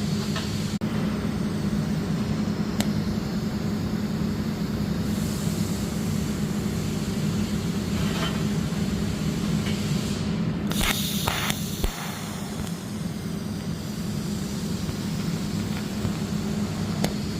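On-site arc welding around a pipe joint: a steady hiss over a constant low machine hum, with a short cluster of clicks about eleven seconds in.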